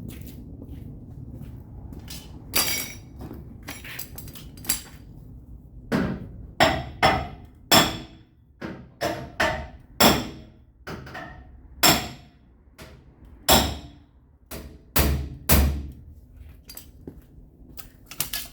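Hammer tapping on the sheet metal of a pickup's quarter panel to work out a dent: irregular sharp metallic strikes with a short ring, about one to two a second, coming thickest in the middle.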